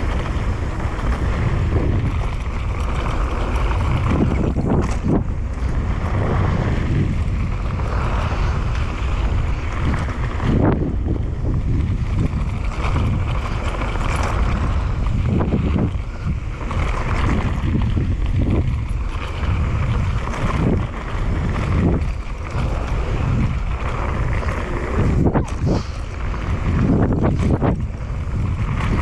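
Mountain bike running fast down a dirt trail: wind buffets the camera microphone with a constant low rumble, over tyre noise and repeated knocks and rattles as the bike hits bumps.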